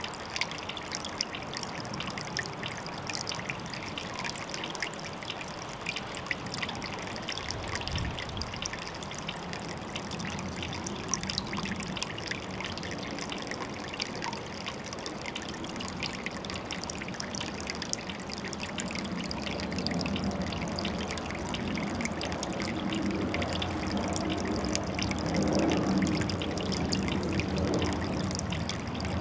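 Water trickling and splashing steadily into a pond, with many small, fine splashes; it grows fuller and louder about twenty seconds in.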